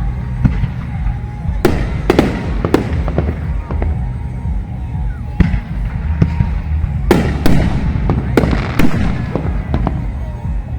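Aerial fireworks shells bursting: a string of sharp bangs, several in quick pairs, each trailing off in a rumbling echo. Music with a heavy bass runs underneath.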